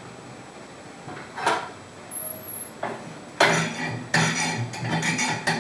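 Clinking and knocking of hard objects being handled at a wood-burning stove: a single knock about a second and a half in, then a run of rattling, clattering knocks over the second half.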